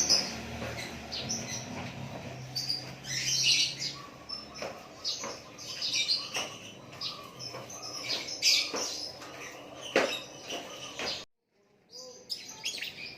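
A songbird chirping and singing in short, varied phrases, with a few sharp clicks among them. The sound cuts out briefly near the end, then the chirping resumes.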